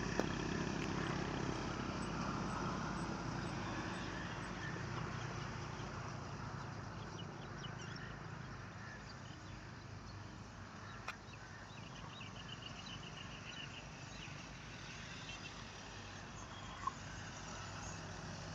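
Road traffic passing: engine hum and tyre noise that fades away and then swells again near the end as vehicles go by. Short chirping bird calls come in about two-thirds of the way through.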